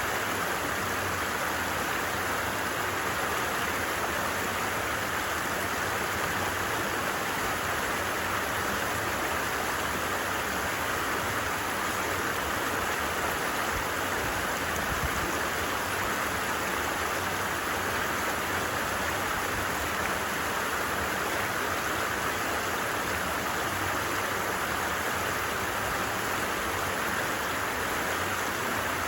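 A stream flowing, a steady unbroken rush of water.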